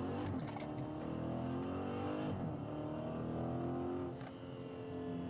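Dodge Challenger Scat Pack's 392 HEMI V8 engine accelerating, its note climbing at the start and then running on with a pitch that slowly falls and rises again.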